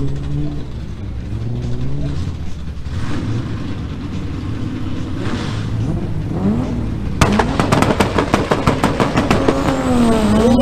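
Drag race car engine running and revving, then from about seven seconds in a loud rapid crackle of exhaust pops over the rising engine note.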